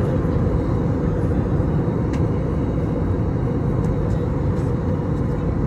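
Steady cabin noise of an Airbus A321neo airliner in flight: an even low rumble of engines and airflow, with a couple of faint ticks.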